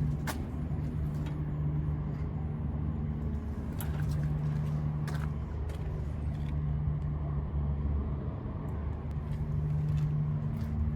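A low, steady engine hum, like an idling motor, swelling and fading every few seconds, with a few sharp clicks.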